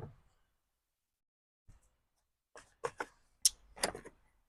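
A few sharp clicks and light knocks, about five in the second half, from hands and tools working the carburetor linkage on a Lawn-Boy mower while unhooking a part.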